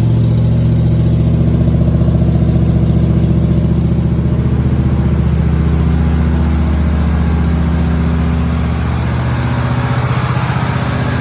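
1977 Ford Thunderbird's rebuilt 351 V8, with a roller cam and an Edelbrock four-barrel carburettor, idling steadily with a deep, even growl through factory dual exhaust with glass-pack mufflers.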